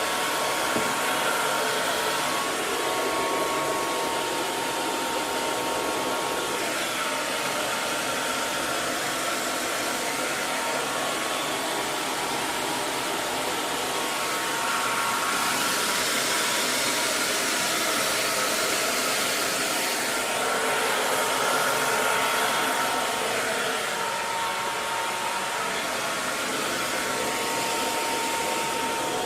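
Hair dryer running steadily: an even rush of blown air with a faint motor whine around 1 kHz, swelling slightly now and then.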